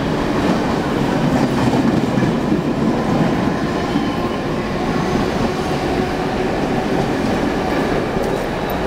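Mumbai suburban local electric train (EMU) running along the platform: a steady rumble of steel wheels on rail with clickety-clack from the rail joints.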